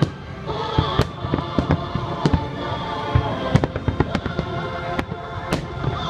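Aerial firework shells bursting in quick succession, a dense string of sharp bangs about three a second, with music playing underneath.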